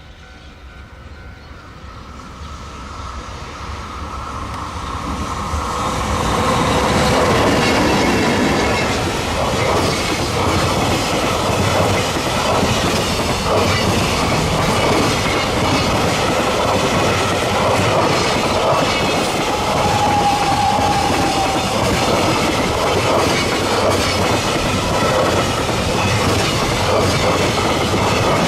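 Electric-locomotive-hauled freight train passing close by. It grows louder over the first several seconds as it approaches, then a long, steady run of wagons rumbles past with wheels ticking over rail joints. A short wheel whine comes about two-thirds of the way through.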